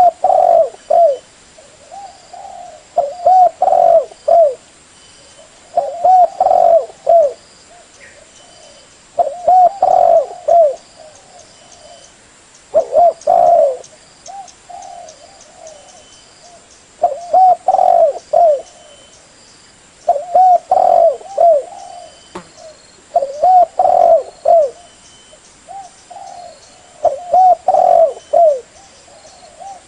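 Derkuku dove cooing: phrases of several short, low coos, repeated about every three to four seconds. This is the kind of call used as a lure (pikatan) to draw wild doves.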